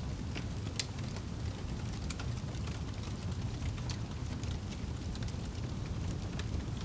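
Wood fire crackling in a fireplace: a steady low rumble of burning with scattered sharp crackles and pops throughout.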